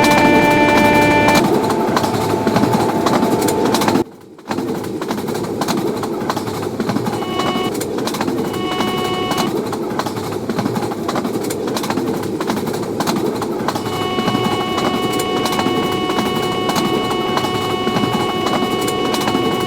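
Train running at speed, a steady roar of wheels on rails with faint clicks. A steady stack of tones sounds over it: at the very start, twice briefly around eight and nine seconds, and again over the last six seconds. The sound drops out abruptly for about half a second around four seconds in.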